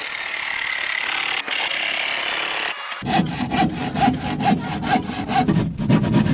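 Wood being sawn: a steady rasping hiss for about three seconds, then back-and-forth saw strokes at about two a second.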